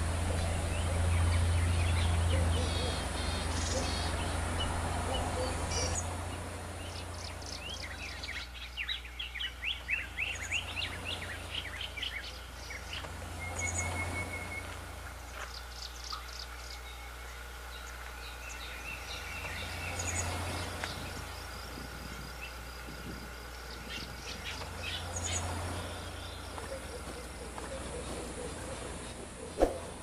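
Yuhinas chirping at the nest: a fast run of short, high chirps about a third of the way in, then scattered calls, over a steady low hum. A single sharp click comes near the end.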